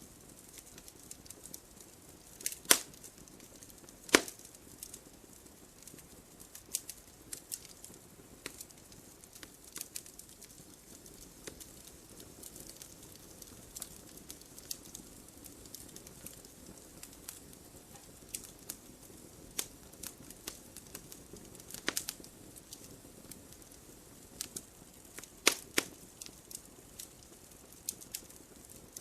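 Wood fire crackling steadily, with scattered sharp pops from the burning wood; the loudest pops come about three and four seconds in, and again a little after twenty seconds.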